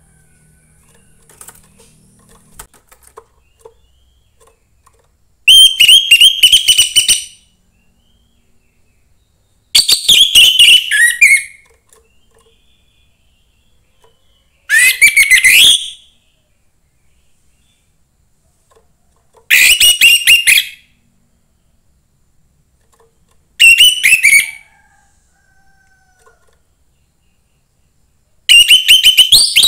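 Young wild-caught orange-headed thrush singing: six loud phrases of rapid high notes, each one to two seconds long, spaced about four to five seconds apart with silence between.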